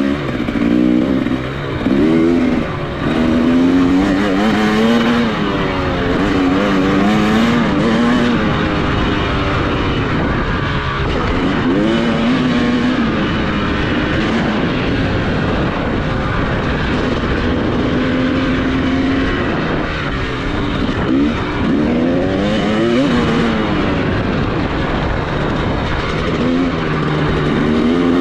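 Dirt bike engine being ridden hard around a motocross track: the pitch climbs under throttle and drops back again and again as the rider accelerates, shifts and brakes.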